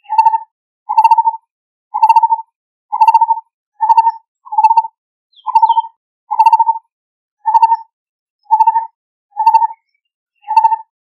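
Lineated barbet calling: a single low note repeated evenly about once a second, a dozen times over.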